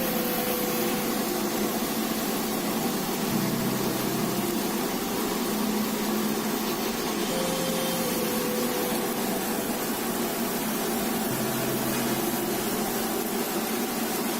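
Steady rushing air noise with a low motor hum, typical of an electric fan blowing on a charcoal satay grill.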